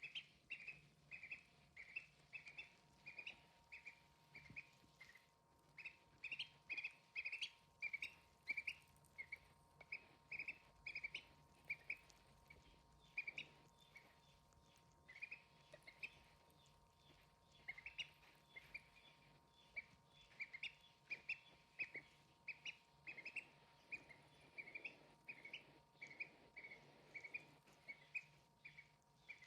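Young poultry peeping: short high calls, a few a second, repeated over and over.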